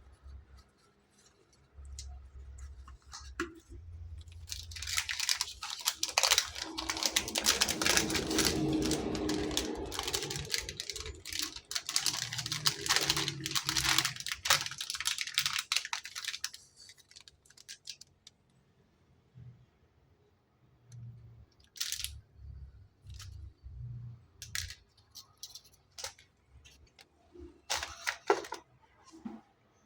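Packaging being handled and torn open: dense crackling and rustling of wrapping for about ten seconds, then scattered clicks and taps of handling.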